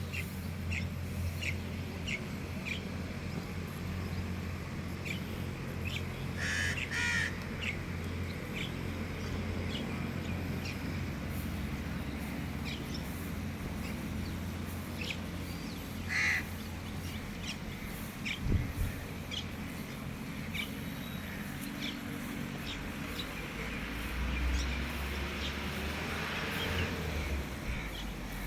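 Birds calling: crows giving a couple of harsh caws, about 7 and 16 seconds in, among many short, high chirps from smaller birds, over a steady low rumble with a single thump around two-thirds of the way through.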